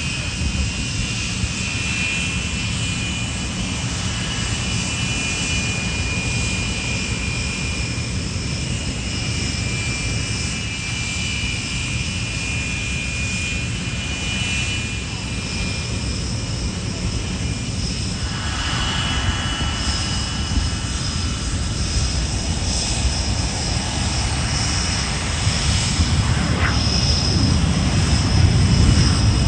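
Jet aircraft engine running steadily: a continuous low rumble with a thin high whine on top, the rumble growing louder over the last few seconds.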